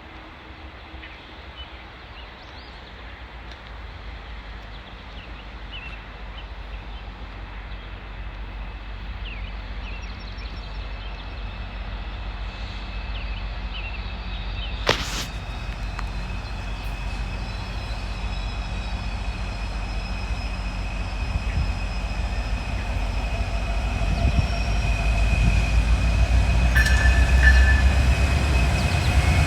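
GO Transit commuter train on the rails: a steady low rumble that grows louder throughout, with a thin, high, steady squeal joining about a third of the way in and a single sharp click about halfway.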